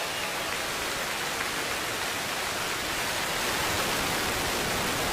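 Falcon 9's nine Merlin 1D engines just after liftoff: a steady, even rush of rocket exhaust noise.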